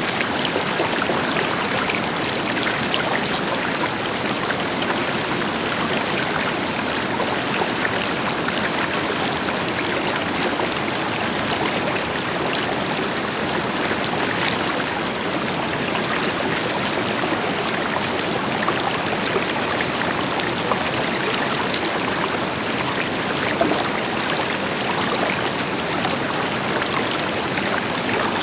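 River water flowing steadily over rocks, a continuous rushing and splashing, with the deeper rush of a waterfall said to be blended underneath.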